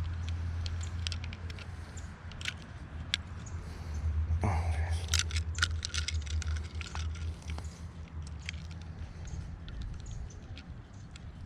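Handling noise while a bass is weighed again on a fish scale: scattered clicks and light rattles, with a louder scuffle of clicks about four to six seconds in, over a steady low rumble.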